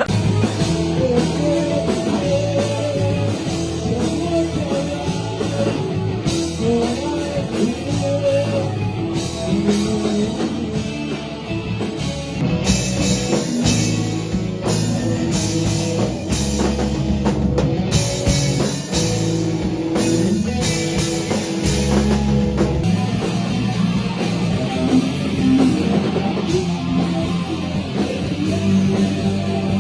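Rock music with a drum kit and guitar, which gets fuller and brighter from about twelve seconds in until about twenty-three seconds.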